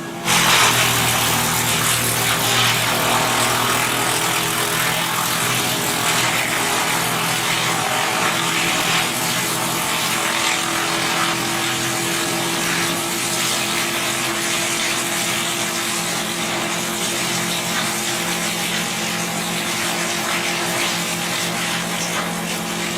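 Large wood chipper running steadily: an engine hum with a continuous hiss over it.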